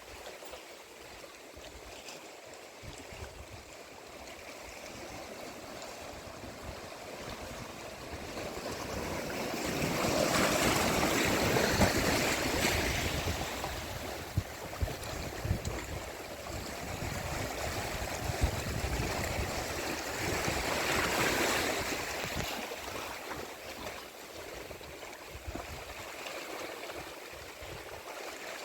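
Sea waves washing on the shore, a steady wash of surf that swells louder twice, about ten and twenty seconds in.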